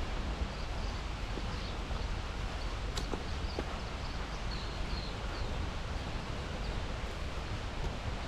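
Steady outdoor ambience of rustling and low rumble, with faint, short, high bird calls scattered throughout; a single sharp click about three seconds in.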